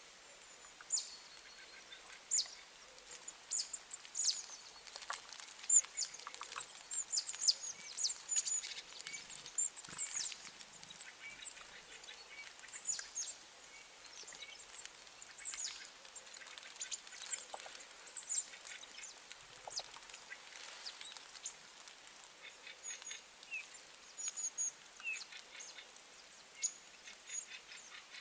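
A flock of small birds chirping: many short, high calls that come thickly in the first half and thin out later.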